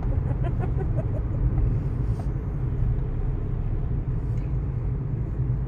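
Steady low rumble of road and engine noise from a moving car driving through a tunnel.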